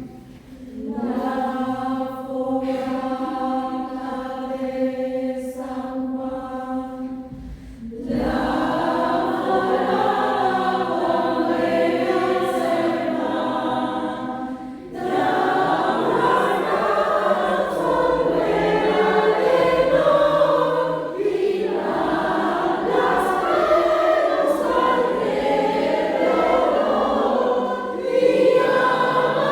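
Choir singing. It opens with long held notes for about eight seconds, then moves into a flowing many-voiced melody with brief breaths between phrases.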